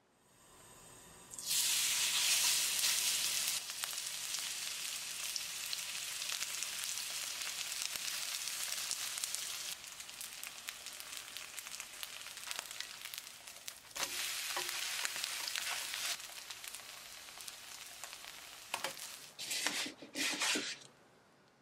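Chive pancake batter frying in hot oil in a pan: a sudden loud sizzle as the batter goes in about a second and a half in, settling into steady sizzling with small pops. It flares again about two-thirds of the way through and breaks into short bursts near the end.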